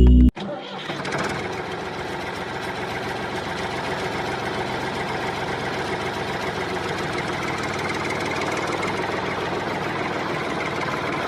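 Small motor and gear train of a homemade mini tractor running steadily, with a fast, even rattle. A short music sting cuts off just at the start.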